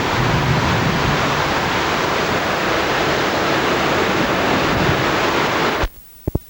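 Steady, loud rushing noise with no pitch to it, which cuts off suddenly near the end, followed by a couple of faint clicks.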